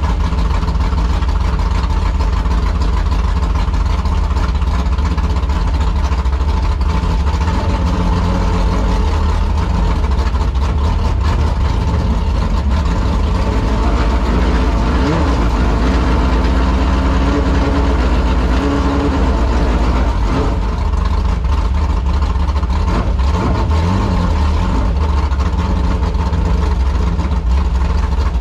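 Street stock race car's V8 engine idling and running at low speed, heard from inside the car's cockpit, with the pitch rising and falling a few times about halfway through.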